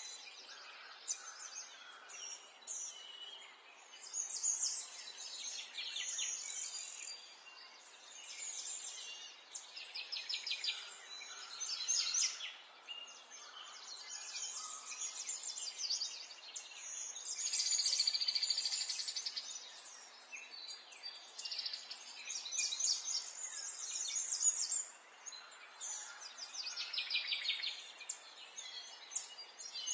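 Several songbirds singing and calling at once, with many overlapping chirps and rapid trills coming one after another, over a faint steady background hiss.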